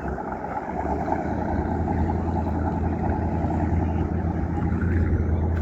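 Motorboat engine running with a low, steady drone that grows louder as the boat draws nearer.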